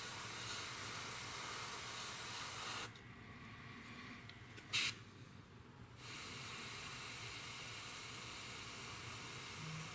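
Airbrush spraying paint with a steady hiss that stops about three seconds in. A short, sharp puff of air comes near the middle, and the spraying hiss resumes about six seconds in.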